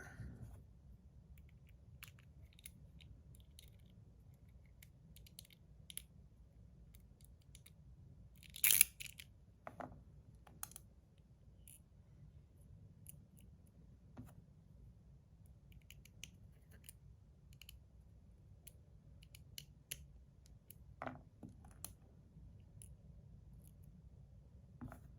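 Faint small clicks and scrapes of metal fidget-slider parts being handled and fitted together while a mechanical liner is installed, with one sharper click about nine seconds in and a few lighter ones later.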